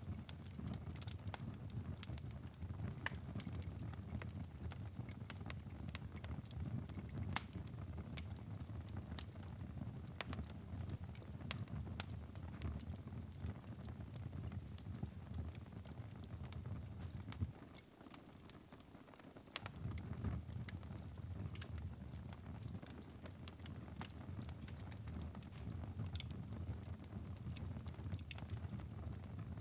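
Wood fire crackling in a fireplace: scattered sharp pops and snaps over a low, steady rumble of flames. The rumble drops away for about two seconds in the middle, leaving only faint crackles.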